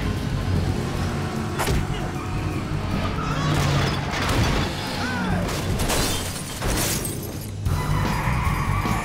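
Car-chase film soundtrack: action music mixed with car engines, a sharp crash about two seconds in, and skidding tyres and noisy rushes of passing cars and impacts.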